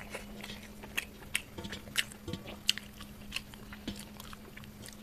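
A person chewing a mouthful of rice and curry, with short wet mouth clicks and smacks a few times a second over a faint steady hum.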